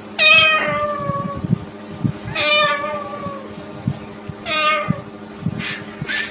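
Three drawn-out meows about two seconds apart, each sliding slightly down in pitch, with soft knocks and a low steady hum underneath.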